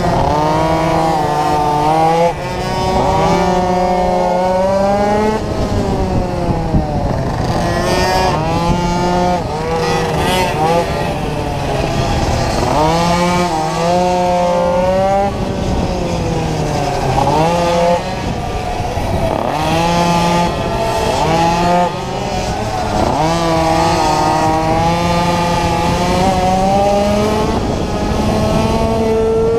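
Small racing motorcycle's engine heard from on board at race pace, its pitch climbing and falling over and over as it accelerates out of corners and backs off into them, with brief dips near the start and twice in the second half.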